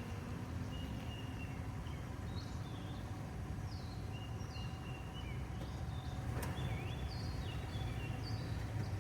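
Birds calling in repeated short whistled notes, some sliding up or down in pitch, over a steady low rumble, with a single sharp click about six seconds in.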